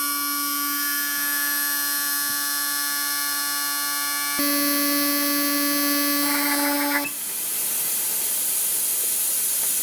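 Fuel injector cleaning stand running in its forced flushing mode, with the injectors being pulsed: a steady electric buzz that shifts to a slightly different, louder buzz about halfway through. About 7 s in it turns into an even hiss of flushing fluid spraying.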